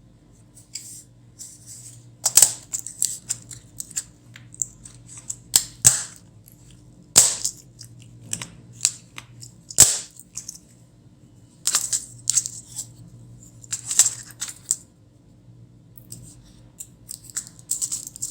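Irregular clicks, taps and short scrapes of hand tools on the plastic and metal parts of a Dell Latitude E5440 laptop being taken apart, over a faint steady hum.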